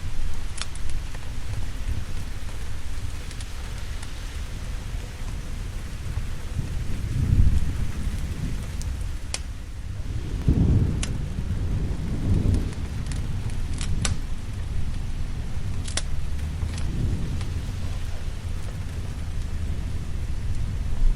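Steady heavy rain with thunder rumbling, a deep roll about seven seconds in and a longer, stronger one about ten seconds in, fading over a few seconds. A few sharp crackles are scattered through it.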